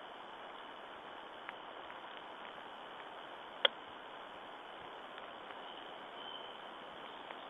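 Quiet forest ambience: a steady hiss with a few faint ticks and one sharp click a little after halfway.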